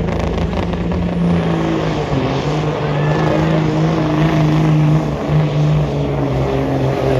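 Diesel engine running hard at high revs, pulling a weight sled down the track, its pitch stepping up and down a few times as the load changes.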